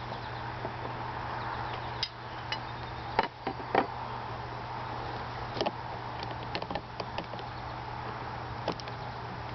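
Metal hive tool and wooden hive frame clicking and knocking against the hive box as a stuck frame is prised out, a scatter of sharp clicks, the loudest a few seconds in, over a steady low hum.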